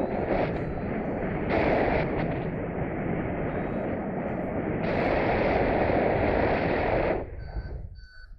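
Strong wind buffeting the microphone in flight under a paraglider, a loud rushing that swells and eases in gusts. About seven seconds in the wind drops, and a few short high beeps from the flight variometer come through.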